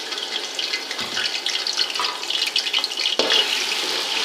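Onion paste going into hot ghee in a large cooking pot, sizzling and crackling steadily, with two dull knocks, one about a second in and one a little after three seconds.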